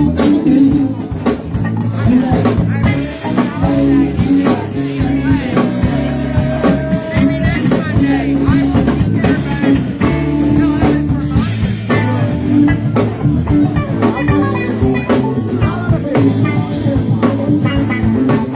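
Live band playing: electric guitar lines over bass and drum kit, at a steady loud level.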